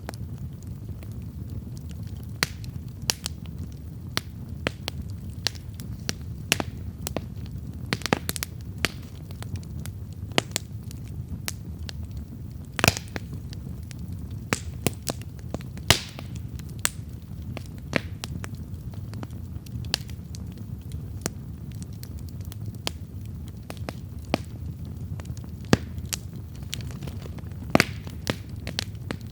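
Wood campfire burning: a steady low rush of flame under irregular sharp crackles and pops, the loudest pops about 13 and 16 seconds in.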